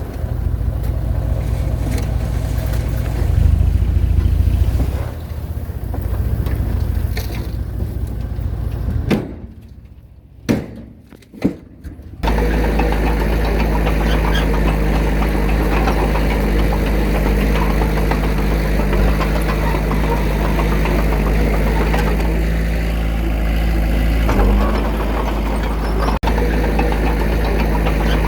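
Diesel engine of heavy earthmoving machinery running steadily. It drops away for a few seconds about nine seconds in, with a few short knocks, then comes back as an even, steady engine note.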